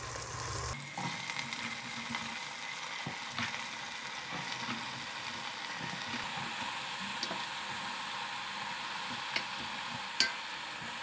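Freshly added raw brinjal (eggplant) pieces sizzling in hot oil: a steady frying hiss sets in about a second in, with a few faint pops.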